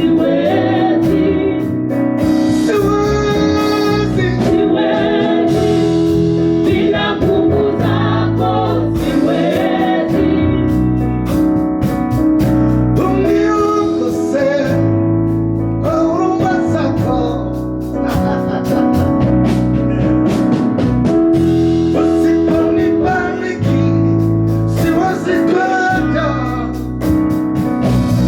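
Gospel praise and worship music: voices singing over sustained keyboard chords and a low bass line.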